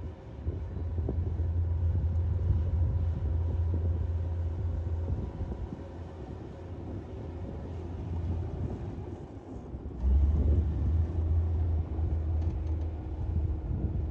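Komatsu D58P bulldozer's diesel engine working under load: a deep, heavy rumble that swells for the first few seconds, eases off through the middle, then surges again about ten seconds in.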